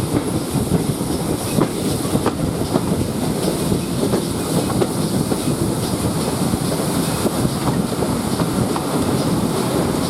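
Railway carriage running along the line, its wheels clicking over the rail joints over a steady rumble.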